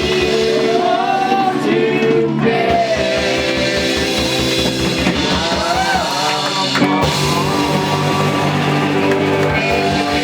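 Live rock band playing: drum kit, bass and electric guitars.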